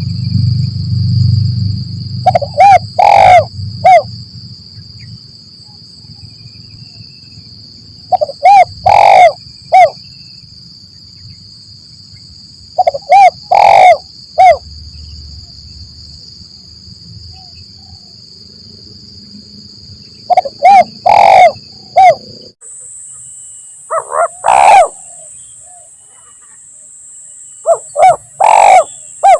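Spotted doves cooing: short phrases of three or four coos, repeated about every five seconds, over a steady high-pitched buzz that shifts higher about two-thirds of the way through.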